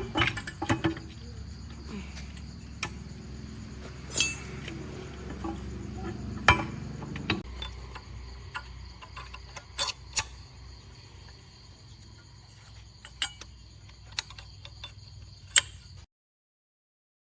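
Metal tools and parts clinking and tapping now and then, over a low steady hum that fades about halfway through. The sound cuts off abruptly about a second before the end.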